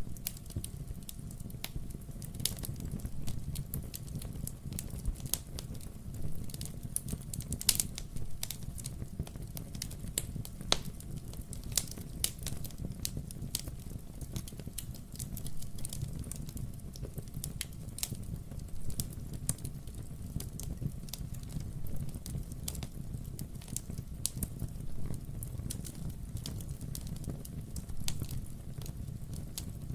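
Wood fire in a fireplace crackling steadily, with a low rumble of burning logs under frequent irregular pops and snaps.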